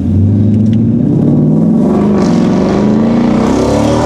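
Ford Mustang GT 5.0 V8 engine and exhaust running loudly, holding steady at first and then revving up gradually over the second half.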